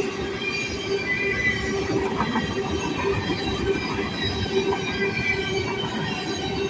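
Train cars rolling past steadily, with thin high-pitched wheel squeals.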